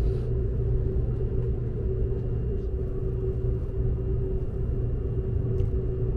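Seibu 001 series Laview limited express heard from inside the passenger cabin while running, a steady low rumble with a constant hum.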